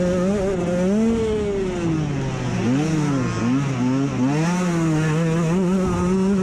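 Dirt bike engine revving hard: the pitch falls as the throttle is rolled off about a second in, stays low and wavers through the middle, then climbs back and holds high near the end.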